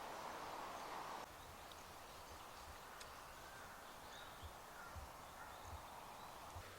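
Faint outdoor ambience with a few distant bird calls and some soft low thumps; a steady hiss cuts off about a second in.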